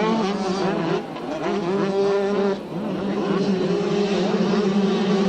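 Several two-stroke motocross bikes racing, their engines revving up and down over a steady drone, with the sound dipping briefly about a second in and again just past the middle.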